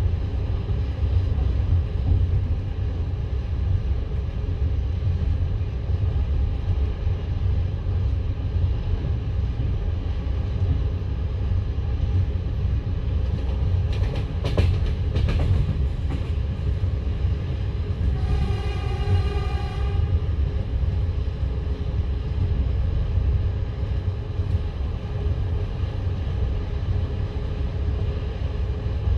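Passenger train running along the line, heard from aboard: a steady low rumble of wheels on rail, with a brief clatter about halfway through. Shortly after the clatter, a train horn sounds once for about two seconds.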